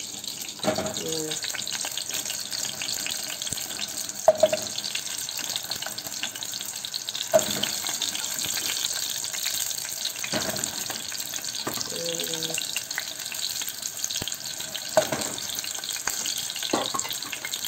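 Small onions frying in hot oil in a pot: a steady sizzle with fine crackling and light spattering, broken by a few brief louder clicks.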